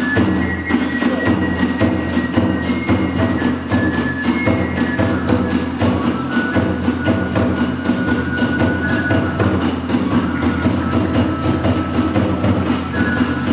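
Hiroshima kagura festival music: drums and hand cymbals beat a fast, even rhythm of about five or six strokes a second while a bamboo flute plays a high, held melody above.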